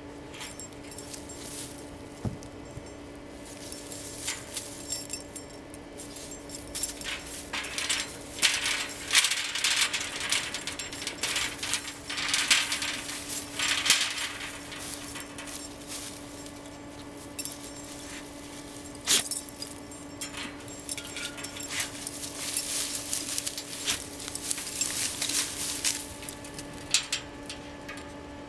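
Black Lab puppy moving about close to the microphone, with scattered sharp metallic clinks and short rustling scuffles that come in busy spells.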